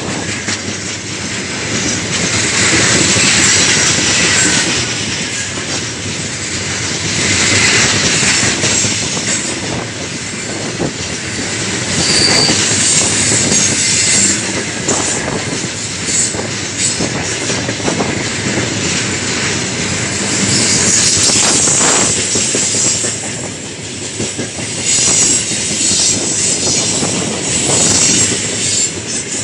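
Heavy freight train of gondola wagons rolling past, its wheels clattering over the rail joints with intermittent high-pitched squealing. The noise swells and fades every few seconds.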